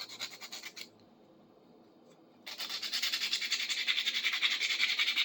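Sandpaper rubbed by hand in quick back-and-forth strokes on the tip of a small cast-metal fireplace tool, taking off flaking black fire scale. The strokes stop about a second in and start again after a pause of about a second and a half.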